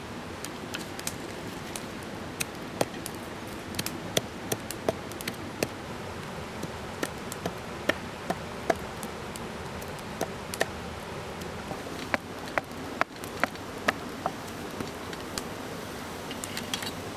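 Wood campfire crackling, with irregular sharp pops and snaps, some louder than others, over the steady rush of a mountain stream.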